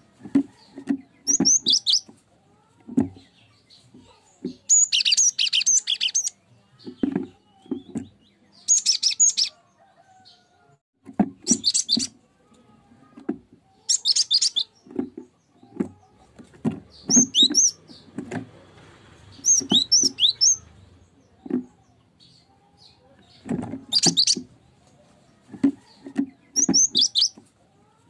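Cinereous tit (gelatik batu) singing and calling in short repeated bursts of quick, high chirping notes every one to three seconds, with short low-pitched notes in between.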